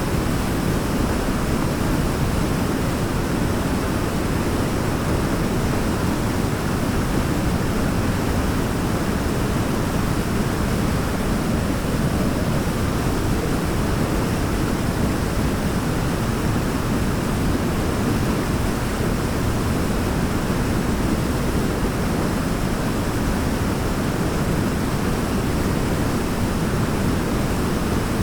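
Waterfall rushing steadily, a dense even roar of falling water with most of its weight low down.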